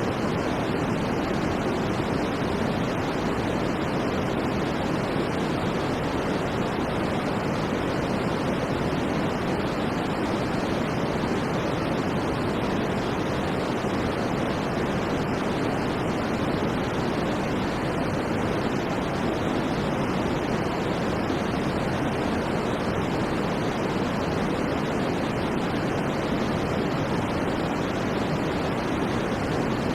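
Synthetic white noise for sleep: a steady, unchanging rushing hiss, fuller in the lower middle than at the top.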